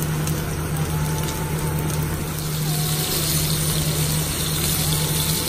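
Pork chops frying in hot oil in a skillet, a steady sizzle that grows brighter about halfway through, over a steady low hum.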